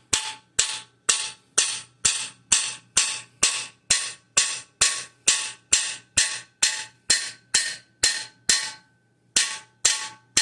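Steady hammer blows on a cam bearing driver, driving a cam bearing into its bore in a Ford engine block: sharp steel-on-steel strikes, about two a second, each with a short ring, with a brief pause near the end.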